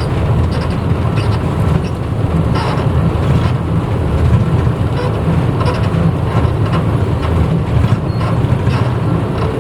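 Interior of a 1994 Hino Blue Ribbon U-HT2MPAA city bus under way: a steady low engine drone and road noise, with occasional short rattles and clicks from the cabin.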